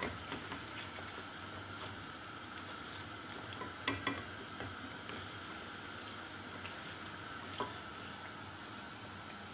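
Gram-flour-battered eggplant slices sizzling steadily in hot oil, with a few light knocks of a wooden slotted spatula against the pan as the slices are lifted out, the clearest about four seconds in.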